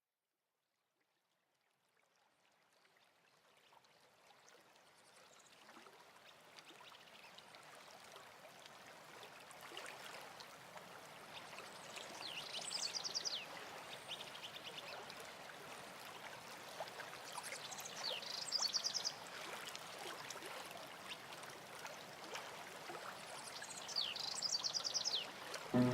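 Outdoor nature ambience fading in from silence: a steady rushing hiss like running water, with birds calling, three times in a quick high trill.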